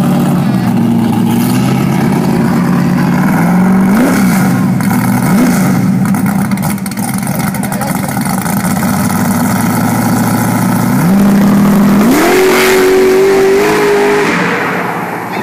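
A drag car's engine idling lumpily at the starting line and blipped twice, then revved and launched: its pitch climbs and holds high as the car pulls away down the strip, fading near the end.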